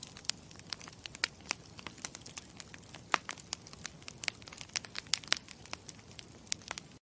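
Campfire crackling: irregular sharp pops and snaps over a low steady rumble, stopping suddenly near the end.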